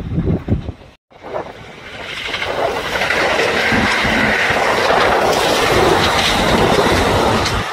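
Electric train on the rails: rhythmic wheel clacks at first, then, after a sudden break about a second in, a loud steady rushing noise of a train running past that builds over about a second.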